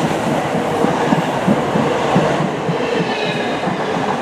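Class 442 electric multiple unit running into the platform, its wheels clattering irregularly over rail joints and pointwork, with faint steady whining tones above.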